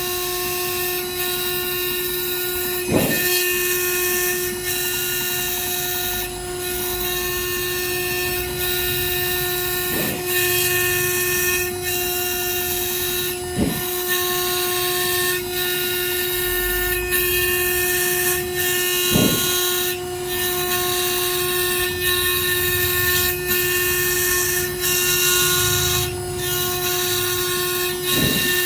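Small CNC spindle running with a steady whine and cutting hiss as it mills an iPhone X A11 CPU chip, its pitch briefly swooping about five times.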